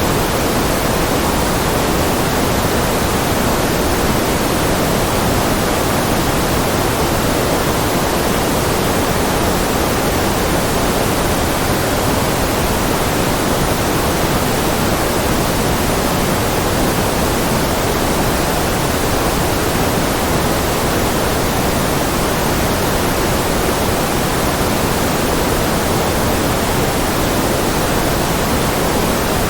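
Steady, unvarying generated white noise: a continuous hiss with a full, low-middle body and softer highs, with no change or break.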